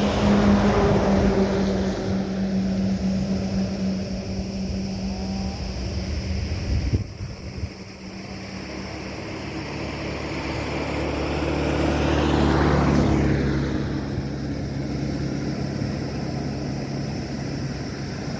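Two-stroke chainsaws running steadily at speed. There is a sharp break about seven seconds in, and the engine pitch rises and shifts again around the middle.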